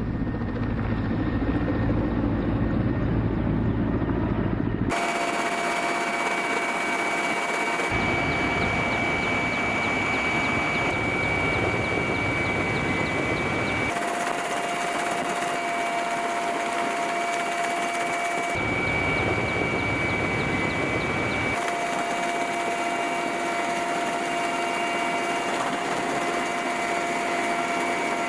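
Ka-52 coaxial-rotor attack helicopter running, a steady noise with a high whine, in several spliced clips that change abruptly every few seconds.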